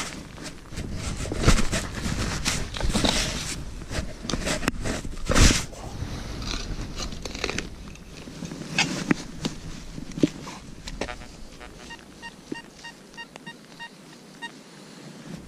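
Wind buffeting the microphone with scraping and handling noise, then, from about two-thirds of the way in, a run of short, evenly spaced electronic beeps, about three a second, from an XP Deus metal detector sounding off on a target.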